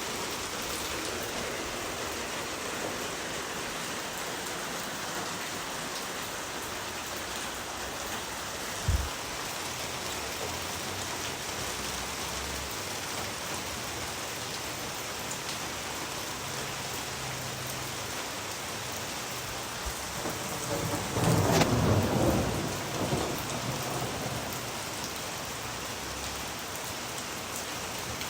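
Steady heavy rain falling, with a brief low thump about a third of the way in and a louder rumble of thunder about two-thirds of the way through.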